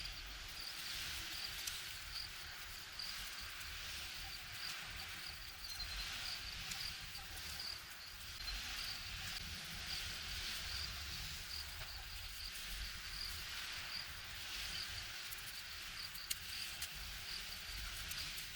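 Insects chirping in a steady run of short, high, evenly repeated notes, about two a second. Under them is a rough hiss that swells and fades every second or two.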